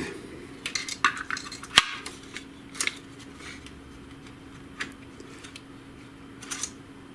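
Scattered clicks and clinks of plastic printer parts and small tools being handled during disassembly, with one sharper click about two seconds in, over a faint steady hum.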